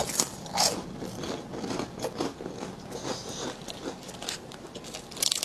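Close-up chewing of a crunchy chocolate oat crisp with a wafer-like texture: irregular crisp crunches and crackles. Near the end, plastic snack wrappers crinkle as the packets are handled.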